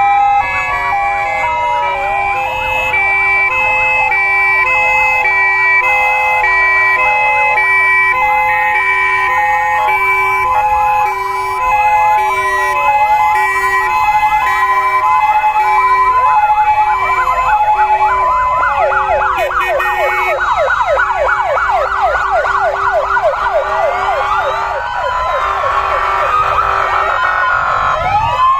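Several fire engine sirens sounding together: two-tone sirens alternating steadily between a high and a low note, with wailing sirens sliding up and down over them. About halfway through a fast yelping siren joins in, and near the end slow rising and falling wails take over.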